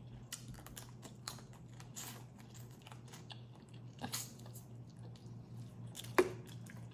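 Close-miked eating of boiled crawfish: shells cracking and peeling and chewing, heard as many small crisp clicks and crunches, with a louder sharp snap about six seconds in.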